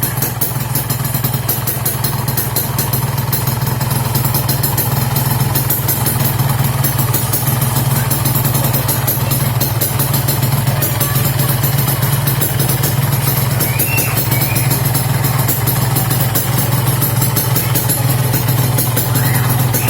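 Yamaha RX-King two-stroke single-cylinder engine idling steadily through an aftermarket Altech exhaust, a loud, even, fast beat that holds level throughout.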